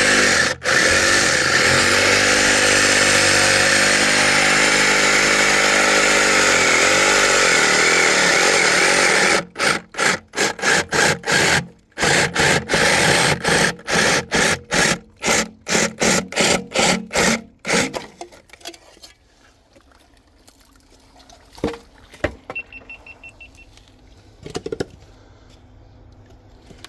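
Cordless power saw cutting through PVC water pipe. It runs steadily for about nine seconds, its pitch sagging under load, then is triggered in rapid short bursts for about eight seconds before stopping. A few faint clicks follow.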